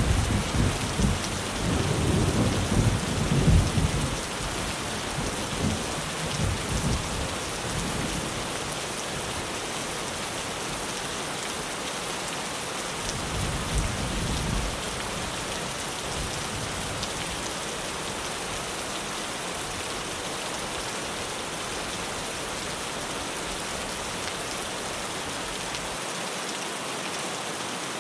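Heavy rain drumming steadily on a tin roof, with rolls of thunder: a long rumble in the first few seconds that dies away, and a shorter one about halfway through.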